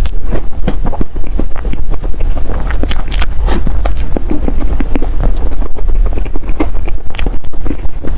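Close-miked eating sounds of a person chewing soft desserts: a dense, irregular run of mouth clicks and smacks over a steady low rumble.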